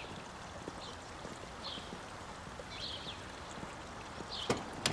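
Faint outdoor ambience with a small bird chirping about once a second, and two sharp clicks near the end.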